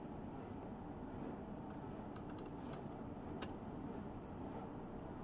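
A scattering of light, sharp clicks and taps, most of them bunched in the middle, over a steady low hum.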